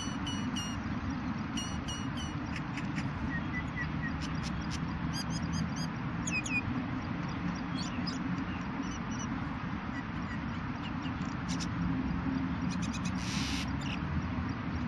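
Small birds chirping in short runs of quick high notes, with one buzzy call near the end, over a steady rushing background noise.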